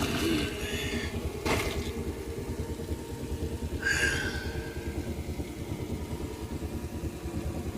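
A motor running with a fast, even low pulsing, like an engine idling and revving, as part of the anime's sound effects. A sharp hit comes about a second and a half in, and a brief high cry about four seconds in.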